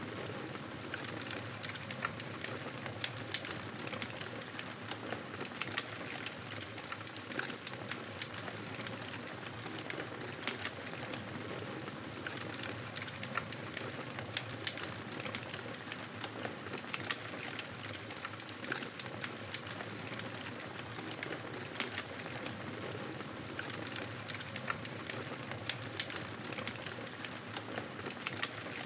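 Fireplace fire crackling: a steady hiss of burning with frequent, irregular small pops and snaps.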